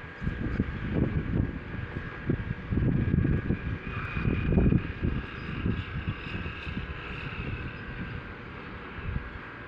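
Wind gusting against the microphone in irregular low rumbling buffets that ease off near the end, with a faint steady high tone behind.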